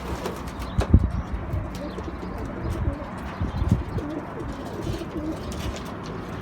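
Domestic pigeons cooing, with a few short knocks and a sharper thump about a second in.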